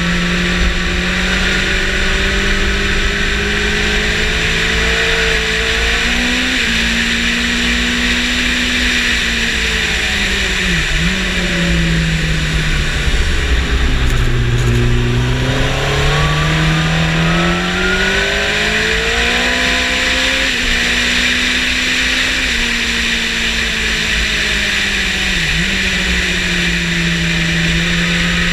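Yamaha motorcycle engine under way on a racetrack, over a constant high rush of noise. The engine note falls steadily to its lowest about halfway through as the bike slows, then climbs again under acceleration, with short sharp dips in pitch about a third of the way in and near the end.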